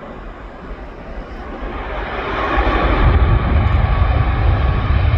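Aircraft engine noise building steadily over about three seconds to a loud rumble, then holding.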